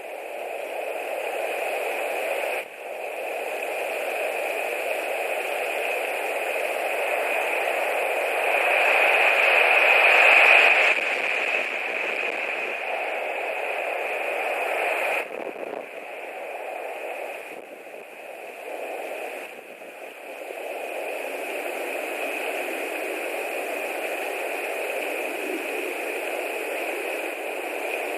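Strong wind blowing over the nest camera's microphone: a rushing hiss that swells to its loudest about ten seconds in, then drops back and dips a few times.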